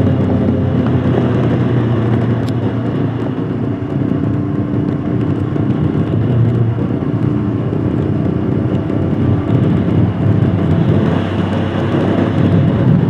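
Royal Enfield Himalayan Scram 411's single-cylinder engine running steadily under way, its note dipping slightly about four seconds in, with a hiss of road and wind noise over it.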